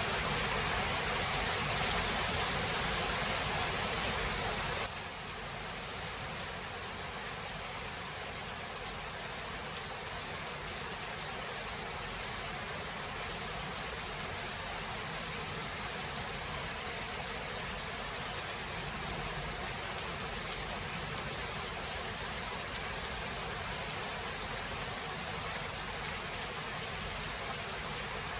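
Steady hiss of heavy rain. About five seconds in the level drops suddenly, then holds.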